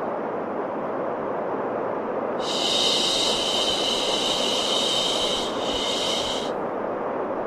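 White noise for baby sleep: a steady, even rushing noise. A brighter, higher hiss comes in about two and a half seconds in and stops about a second before the end.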